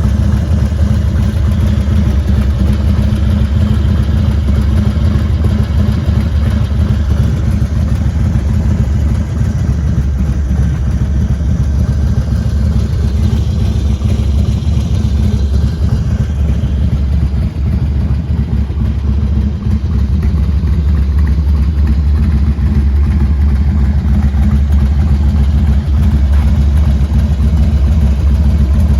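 Harley-Davidson FXDX's 1450 cc Twin Cam V-twin idling steadily through a Kerker 2-into-1 exhaust, a deep, even engine sound.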